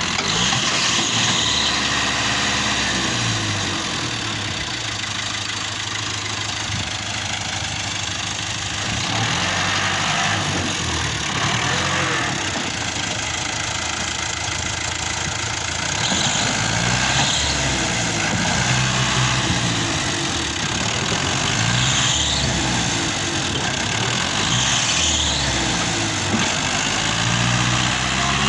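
New Holland 640 tractor's diesel engine running, its pitch rising and falling several times as the load changes.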